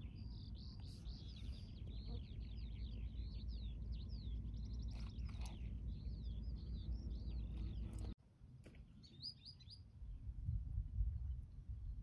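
A songbird singing a long, fast run of rising and falling chirps over a low steady rumble. The sound cuts off suddenly about eight seconds in, followed by one short burst of chirps and a few low gusty thumps.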